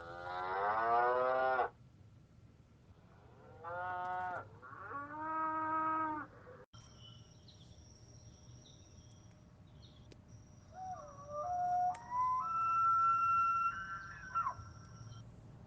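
Cattle mooing: three drawn-out calls in the first six seconds, the first sliding down in pitch. After a short break comes a quieter, different sound of steady high tones whose pitch steps up and down.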